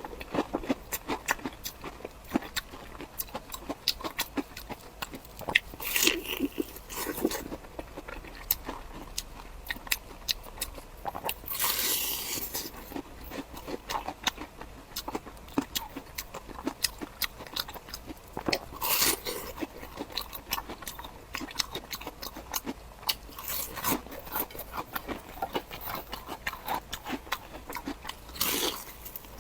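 Close-miked eating: steady wet chewing with many small clicks and smacks, broken by several louder crunchy bites, the longest near the middle.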